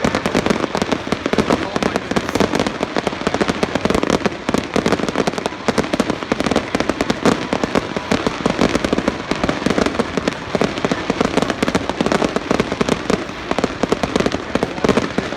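Fireworks display going off: a dense, unbroken stream of rapid bangs and crackles.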